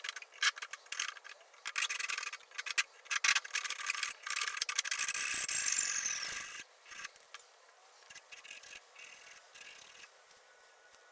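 Rapid hand scraping and rubbing strokes, typical of sanding, filing or wire-brushing in restoration work, for about six and a half seconds. They then stop, leaving only a few light scrapes.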